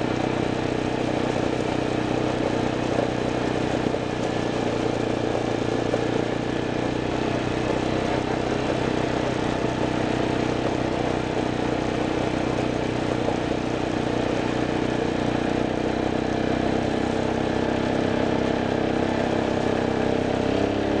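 A vehicle's engine running steadily under way, a constant engine drone over rumbling noise.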